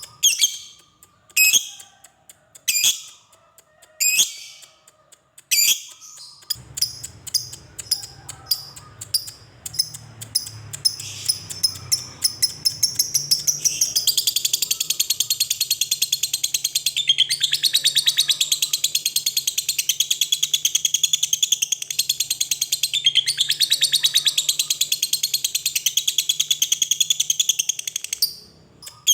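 Lovebird giving a few single sharp chirps, then a quickening run of ticks that turns into a long, unbroken, rapid chattering trill, the 'ngekek' of a fighter lovebird, lasting about fifteen seconds before it stops near the end.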